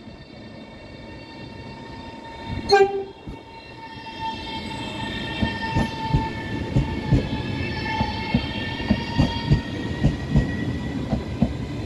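A train's horn sounds one short blast about three seconds in. The train then draws closer with a steady whine, its wheels clacking over the rail joints, getting louder and the clacks coming faster.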